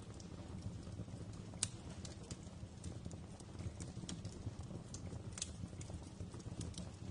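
Fire crackling in a fireplace: irregular sharp pops and snaps over a low steady rumble of burning, with one louder pop about a second and a half in.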